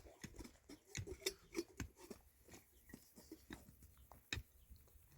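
Irregular light clicks and knocks, several to a second, with a sharper knock a little after four seconds in.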